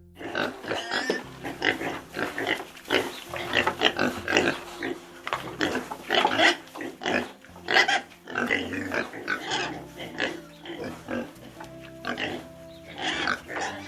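An animal calling again and again in short, irregular bursts, over background music with steady held tones.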